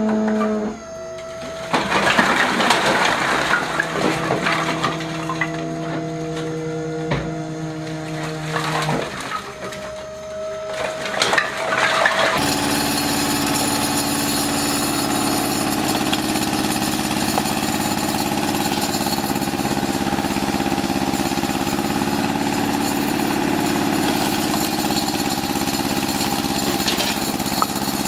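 Machinery engines running, changing abruptly twice in the first half. From about twelve seconds in, one engine runs steadily.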